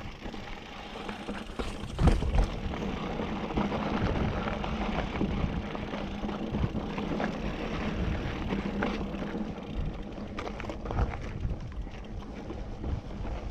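Mountain bike being ridden over rough ground: a steady rolling rumble with sharp knocks and rattles from bumps, the loudest jolts about two seconds in.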